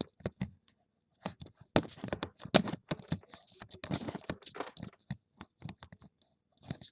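A rapid, irregular run of small plastic clicks and taps with some rustling: a Beyblade top and its packaging being handled.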